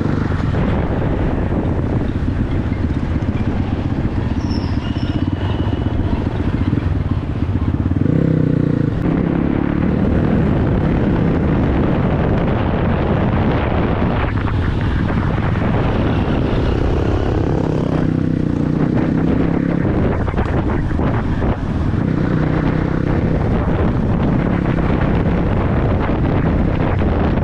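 Dirt bike engine running while riding, its pitch rising and falling several times with the throttle over a constant rush of noise.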